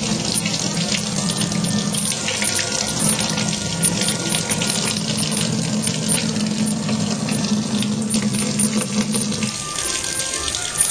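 Tap water running from a faucet and splashing into a sink as a cat drinks from the stream, a steady splashing with fine crackles throughout.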